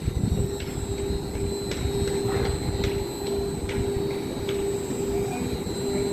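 A Muni Metro light-rail train at the underground platform: a steady electrical hum over a low rumble, with scattered light clicks and knocks about once a second.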